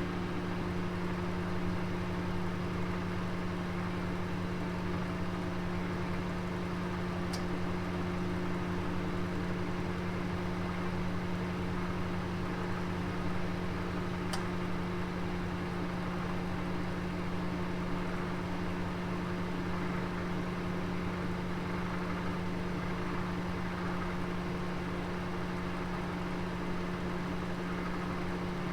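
Oven running with a steady electrical hum and fan whir. Two faint high ticks come about seven seconds apart.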